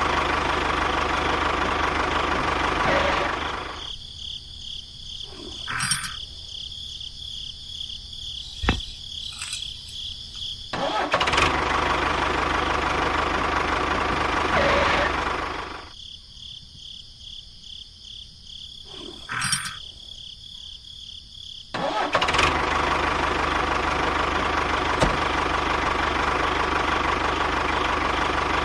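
A small motor running in three spells of several seconds each, stopping between them, with a few sharp clicks in the quieter gaps.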